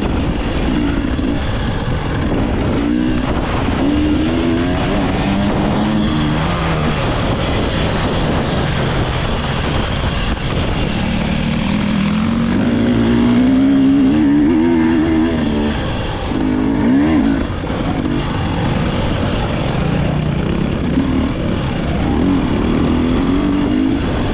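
Dirt bike engine revving, its pitch climbing and dropping again and again as it accelerates and eases off.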